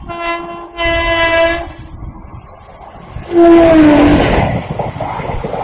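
Indian Railways locomotive horn sounding a long blast, then a louder, lower blast about three seconds in whose pitch drops partway through. The rumble and clatter of a passing train follow.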